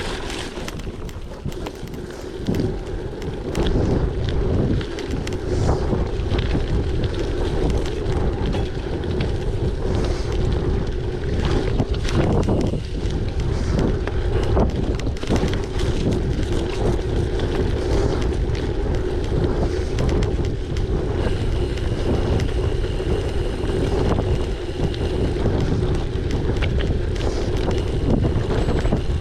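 Wind buffeting the microphone of a gravel bike in motion, over steady tyre rumble, with many small clicks and rattles from the bike throughout.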